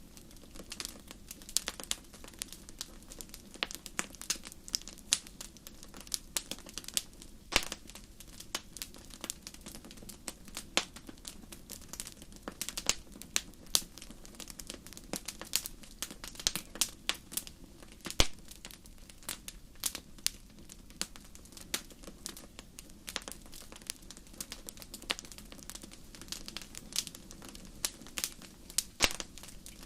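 Wood fire burning in a fireplace: irregular sharp crackles and pops, several a second, over a steady low background. The loudest pop comes a little past the middle.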